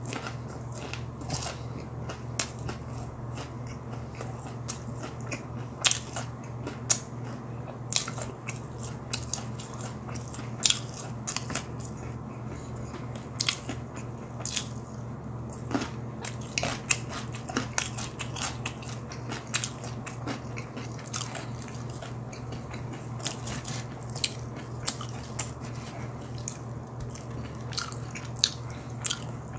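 Close-up chewing and biting of crispy, seasoning-coated BHC Bburinkle boneless fried chicken, with many sharp crunches and wet mouth clicks at irregular intervals. A steady low hum runs underneath.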